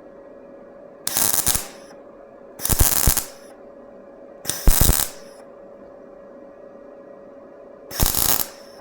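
Welder laying four short crackling tack welds of filler metal into a patched steel car fender, each burst lasting about half a second, with pauses of one to three seconds between them.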